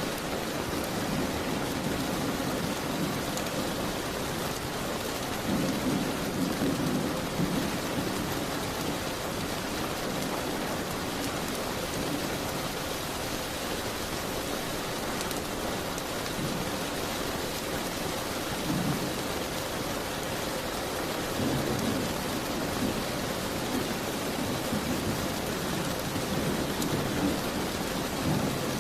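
Steady rain falling, an even hiss, with several low rumbling swells of a second or two each.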